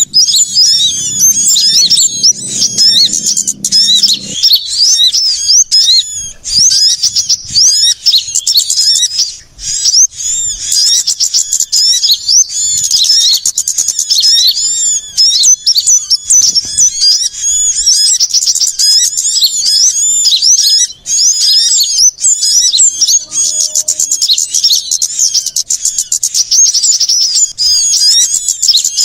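Bird-lure recording of many small birds, such as sunbirds, calling all at once. Rapid high-pitched chirps and twitters overlap in a dense, unbroken, agitated chorus.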